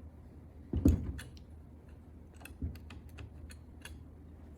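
Light clicks and a couple of soft knocks from handling the small switches and parts of an Ilco 017 key duplicator, with one knock about a second in and a run of quick clicks in the second half.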